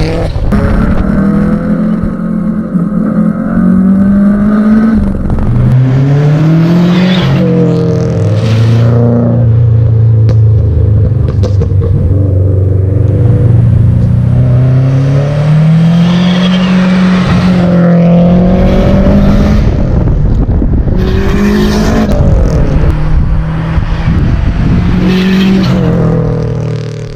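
Subaru Impreza WRX STI's turbocharged flat-four engine under way. It revs up and drops back several times as the car accelerates and changes gear, with steadier cruising stretches in between.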